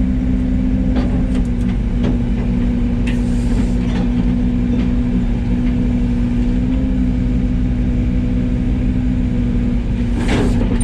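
Yanmar ViO80 mini excavator's diesel engine running steadily under hydraulic work. A few sharp metallic knocks come about one to two seconds in, and a louder clatter comes near the end.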